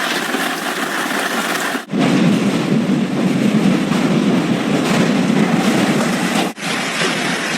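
Hail and heavy rain pelting down in a dense, steady din. Abrupt cuts about two seconds in and again near the end split it into three stretches, the middle one deeper and louder.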